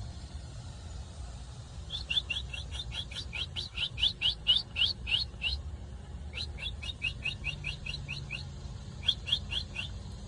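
A small bird calling in quick runs of short, falling chirps, about five a second: one long run starting about two seconds in, a second after a short pause, and a brief third near the end.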